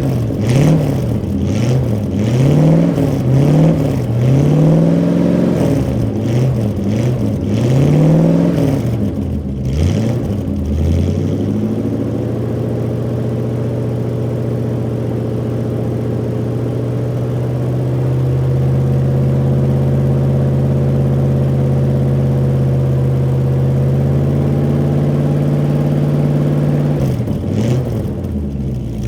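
1986 Chevrolet C-10 Silverado's engine, shortly after a cold start, revved repeatedly in quick blips. About ten seconds in it settles to a steady idle, which steps up slightly a few seconds later. Near the end the revving starts again.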